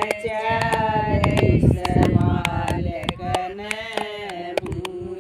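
Voices singing a Hindi devotional folk song (bhajan) in long, drawn-out held notes, over a steady beat of sharp percussive clicks.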